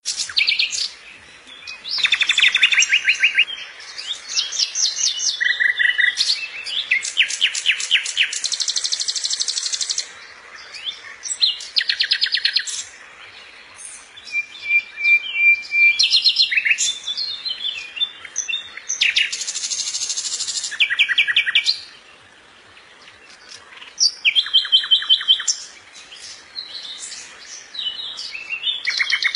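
Songbirds singing: phrases of quick, high chirps and trills, each lasting a second or two, separated by short pauses.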